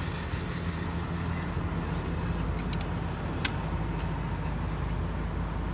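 A vehicle engine idling steadily, a low even hum, with a faint click about three and a half seconds in.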